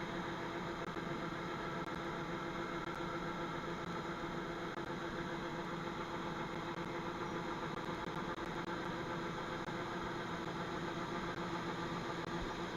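Farm machinery running steadily, a constant engine hum with a few steady tones over a noisy background and no change in speed or load.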